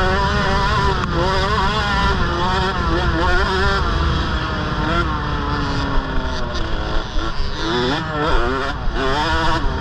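KTM 65 mini motocross bike's small two-stroke single revving up and down under riding. The pitch falls away as the throttle is eased off about midway, then climbs sharply again twice near the end, over a constant low rumble.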